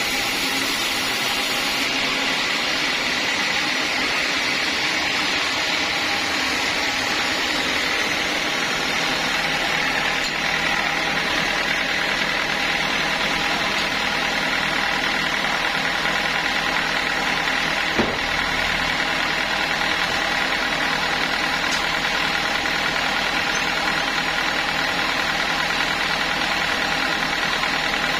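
Sawmill machinery running steadily: a continuous mechanical hum with a high whine, its low rumble growing heavier about a third of the way in. A single sharp knock comes about two-thirds of the way through.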